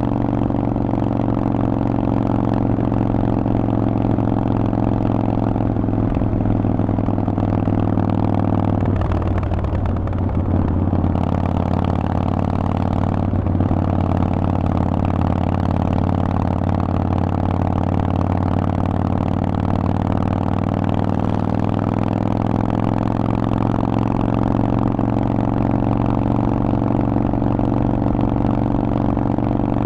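Harley-Davidson Forty-Eight's 1200 cc V-twin running at a steady speed through a Vance & Hines exhaust. About ten seconds in, the engine note briefly changes, then holds steady again.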